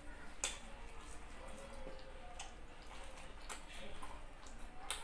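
A person chewing food with the mouth closed: faint wet mouth clicks and lip smacks, with a few sharper clicks scattered through.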